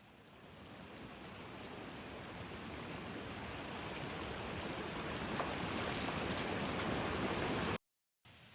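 A steady rushing, hissing noise like water or sizzling that grows steadily louder, then cuts off abruptly near the end.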